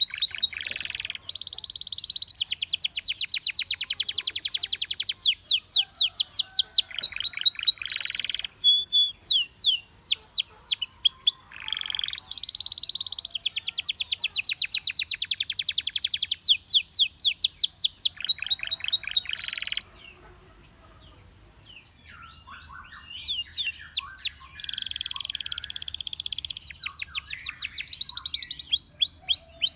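Belgian canary singing: fast, high trills and rolls in phrases of a few seconds each. The song breaks off briefly about two-thirds of the way through, and a few scattered chirps come before the trilling resumes.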